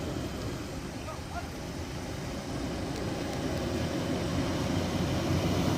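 A heavy diesel vehicle engine running with a steady low rumble, growing gradually louder.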